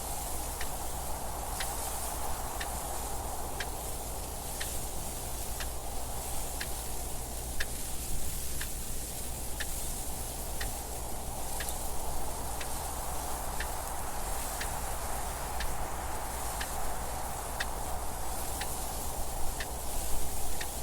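A clock ticking evenly, about once a second, over steady wind noise.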